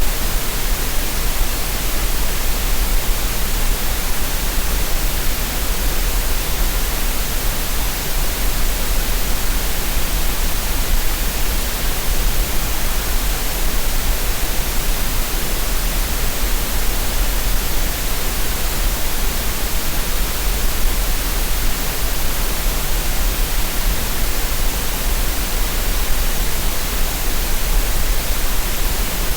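Steady green noise: a constant, even hiss with no changes, made as a masking sound for relaxation and tinnitus.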